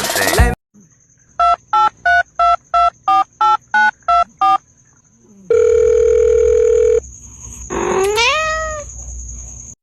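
Telephone keypad dialing tones, about ten beeps at roughly three a second, then a steady tone lasting about a second and a half, then a cat meows once, its pitch rising and then falling. A faint steady high whine lies underneath, and music cuts off just at the start.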